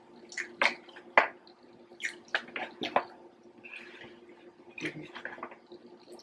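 Close-miked eating sounds: wet chewing and lip smacks from two people eating, heard as a string of short, irregular clicks and smacks with brief quiet gaps.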